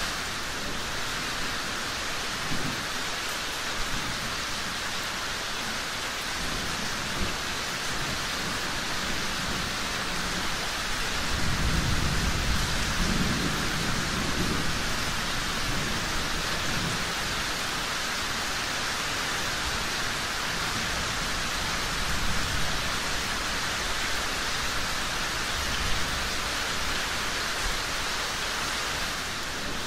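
Steady heavy rain, with a low rumble of thunder swelling about eleven seconds in and fading a few seconds later, and a fainter rumble later on.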